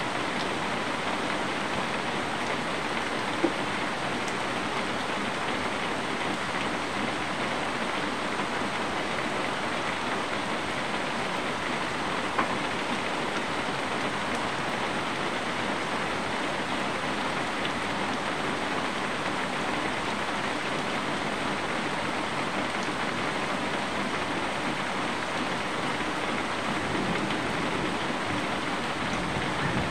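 Steady rain falling outside, an even hiss that holds level throughout, with two brief sharp taps of drops, one about three and a half seconds in and another about twelve seconds in.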